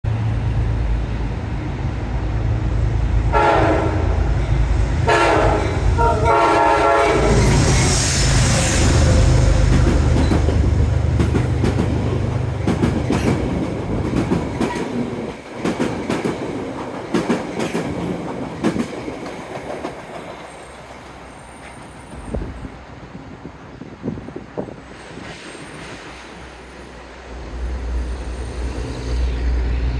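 Metro-North P32AC-DM diesel locomotive sounding three horn blasts at a grade crossing over its loud engine rumble. The train then rolls by with rail clickety-clack that fades after about twenty seconds, and a low rumble rises again near the end.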